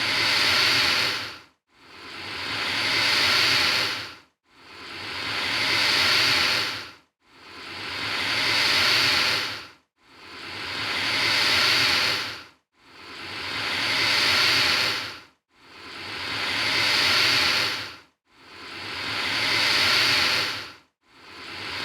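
Alligator hissing, a breathy hiss repeated about every three seconds, eight times in all; each hiss swells up and then cuts off abruptly before the next one.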